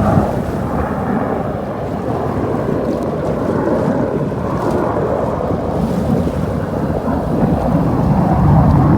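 Wind buffeting the microphone on a sailboat under way, a steady low rumble with the rush of water beneath it.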